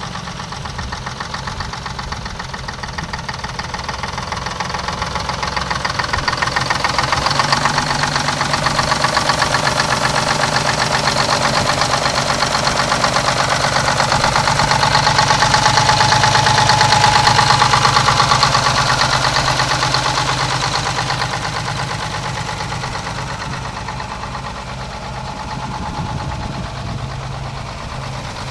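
An engine on a 1979 IHC 2600 jet-pump truck running just after starting, with a fast, even firing beat; its speed and loudness rise through the middle and ease back toward the end.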